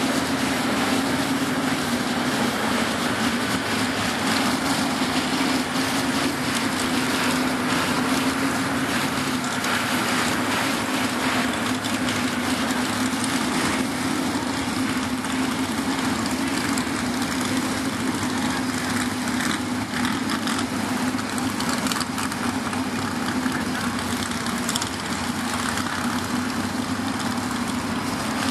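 Pulling truck's engine running steadily at idle, holding one even pitch with no revving.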